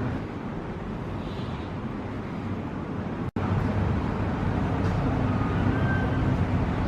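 Steady low rumble of vehicle traffic, with the sound cutting out for an instant about halfway through.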